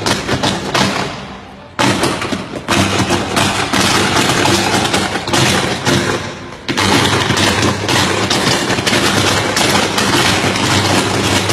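Firecrackers going off in rapid, dense volleys of cracks, like a long string of crackers. The bangs die down briefly about a second in and again past the middle, then start up again.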